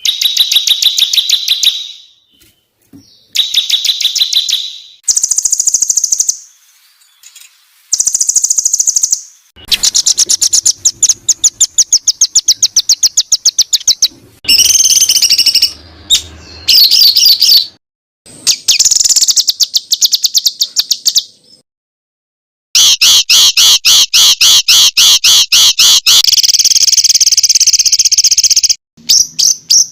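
Songbirds singing fast, tightly repeated chattering trills ('tembakan rapat'), high and sharp, in a string of separate bursts of a second to several seconds each, with short silences between them.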